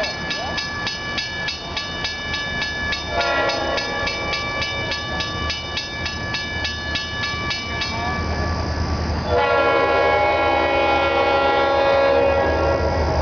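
CSX freight train's lead diesel locomotive sounding its air horn: a short blast about three seconds in, then a long blast from about nine seconds in. Under the horn, a bell rings rapidly until about eight seconds in, and the locomotives' engines rumble low.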